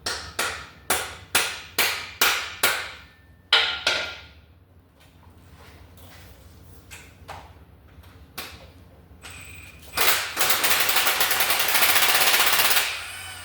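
About nine hammer blows, metal on metal, in the first four seconds, driving a Snap-on Turbo socket onto a stripped exhaust manifold bolt. About ten seconds in, an air impact wrench hammers on that bolt for about three seconds, then stops.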